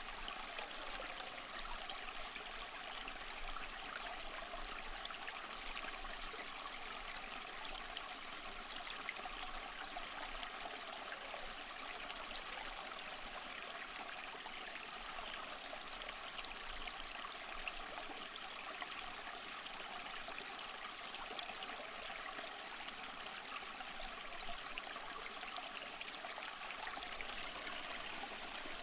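Water of a small stream flowing and trickling over stones, a steady, even rush.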